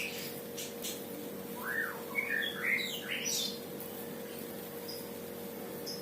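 A small bird chirps in a quick run of short sweeping calls about two seconds in, over a steady hum.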